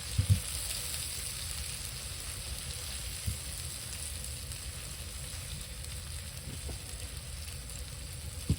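Deer backstrap steaks sizzling steadily in a hot frying pan, with a few light knocks of utensils.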